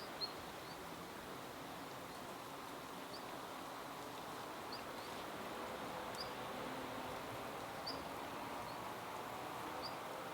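Siberian long-tailed rosefinch giving short, thin, high call notes, scattered about one every second or so, over a steady background hiss.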